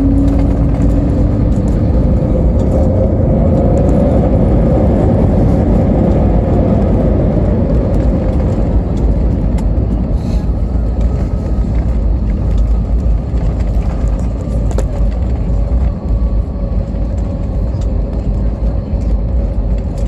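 Cabin noise of an Airbus A320 on its landing roll: a loud, steady rumble from the runway, with the engines' whine rising in pitch over the first few seconds and then falling away.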